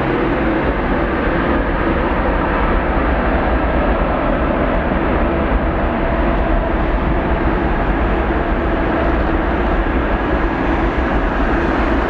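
Boeing 787-9 jet engines at takeoff thrust: a loud, steady rumble with a low hum, as the airliner makes its takeoff run.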